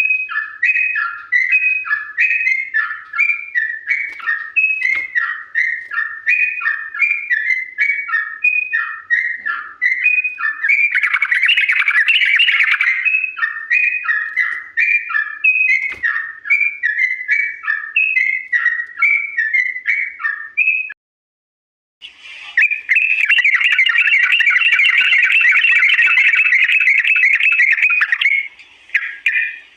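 Yellow-vented bulbul (trucukan) singing: a run of short, repeated chattering notes at about two to three a second, then, after a brief silent break about two-thirds through, a long, fast, unbroken trill, the 'ropel' song.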